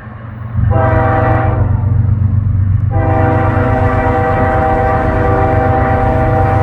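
Norfolk Southern freight locomotive's multi-tone air horn: a short blast about a second in, then a long blast from about three seconds in, over the low rumble of the approaching train.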